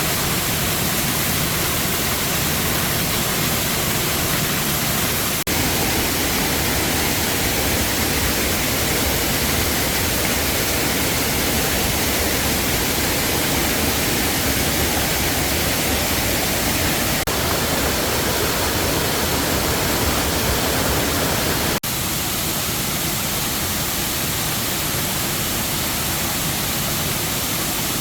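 Waterfall rushing: a loud, steady wash of falling water, with small sudden jumps in level about five and twenty-two seconds in.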